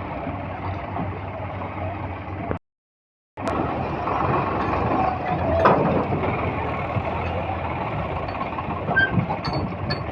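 Diesel tractor engine running steadily, cut to silence for under a second about two and a half seconds in before the engine sound resumes.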